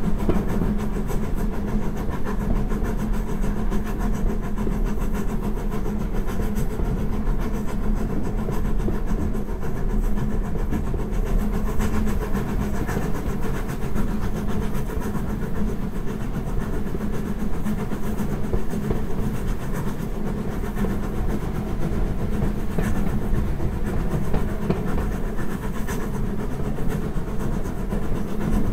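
Steam-hauled passenger train on the move: a steady rumble of the carriages' wheels on the rails, with faint ticks over it.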